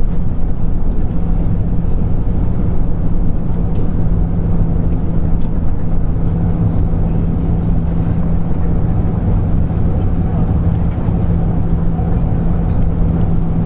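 Steady cabin noise inside an Airbus A340 taxiing on the ground: a constant low drone over a low rumble from the idling engines and cabin air.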